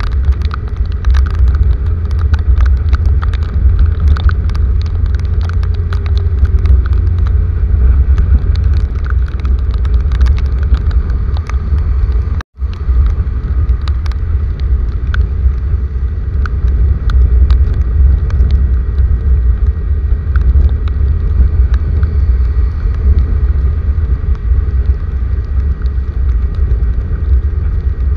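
Heavy rain: a dense, steady patter of raindrops with many sharp drop impacts over a constant deep rumble. The sound cuts out for an instant about halfway through.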